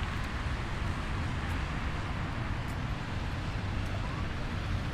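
Steady city street noise: a low rumble of passing traffic, with a few faint ticks.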